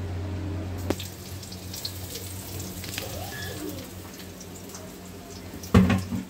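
Chopped onions sizzling in oil in an aluminium kadai on a gas burner, with a loud knock of a utensil near the end.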